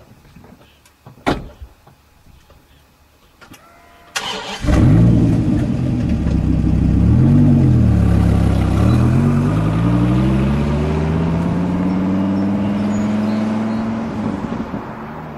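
Dodge Viper V10 engine started with a sudden burst about four seconds in after a few faint clicks. It revs up and down, then its pitch climbs steadily as the car accelerates away, and the sound fades near the end.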